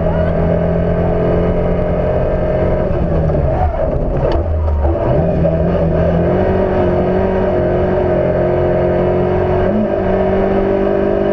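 Fiat Cinquecento's engine running hard under load, heard from on board. About four seconds in, the revs fall away sharply and climb back a second later, as on a lift-off or gear change.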